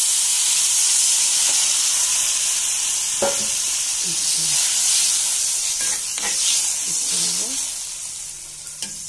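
Chicken curry masala sizzling loudly in a kadai, apparently just after water was added to the hot masala; the hiss eases off near the end. A few spatula scrapes click against the pan.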